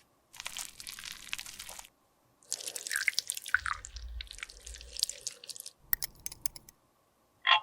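Close-miked crackling and scraping as a cosmetic product is worked by hand, in several separate bursts, with a few clicks and one short sharp tick near the end.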